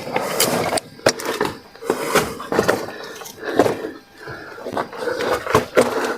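Irregular scuffing, scraping and sharp knocks of loose rock and gravel as people crawl through a narrow cave passage, with the sound close and boxed-in.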